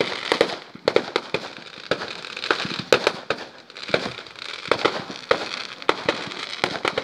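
Fireworks going off: many sharp pops and bangs at irregular intervals, some in quick crackling clusters.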